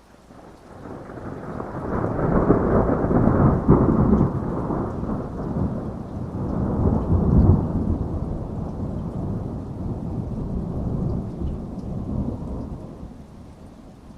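A long rolling thunder rumble that builds over a couple of seconds, swells twice, and dies away near the end, with steady rain falling underneath.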